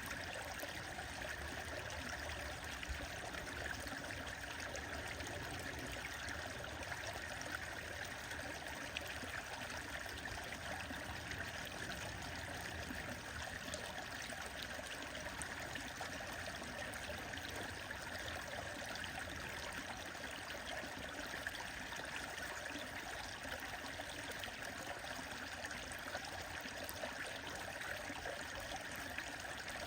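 A stream running steadily, with a few faint small crackles from a wood fire beside it.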